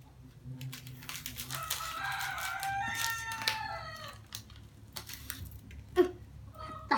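A rooster crowing in the background: one long call of held, stepped notes lasting about two and a half seconds. A short loud sound follows about six seconds in, and another comes near the end.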